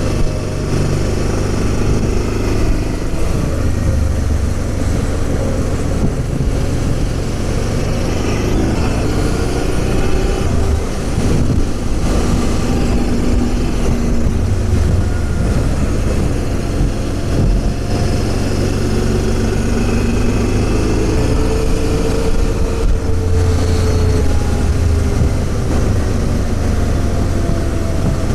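Honda Transalp XL650V's V-twin engine running under way while riding, its pitch slowly rising and falling as the revs change, over steady road and wind noise.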